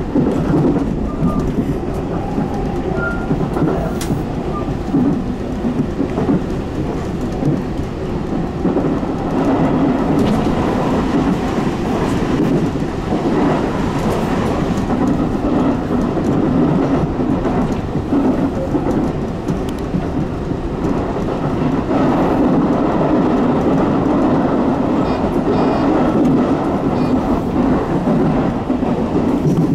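Tobu 10030-series electric commuter train running at speed: a steady, loud rumble of wheels on rail and running gear, heard from aboard the train.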